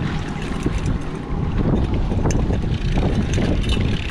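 Boat motor running with wind buffeting the microphone, a steady low rumble, with a few light clicks and knocks on top.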